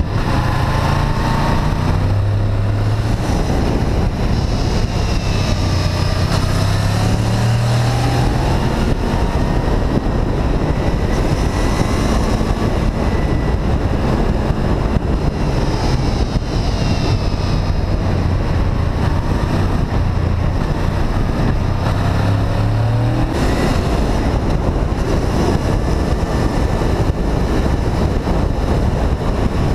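Honda VFR800 VTEC's V4 engine under way, its note climbing and falling back several times as the bike accelerates and changes gear, over steady wind rush on the microphone.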